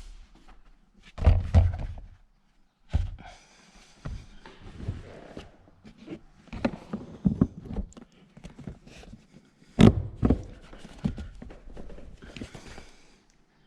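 Irregular knocks, thuds and clatter of car interior trim being handled and fitted back into place during reassembly. Loud thumps come about a second in and again near ten seconds, with lighter tapping and rattling between them.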